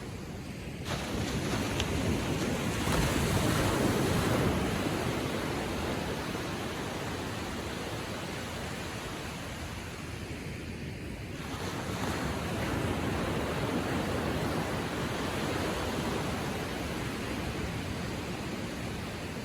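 Small ocean waves washing gently onto a sandy shore: a steady wash that swells twice, first about a second in and again a little past the middle.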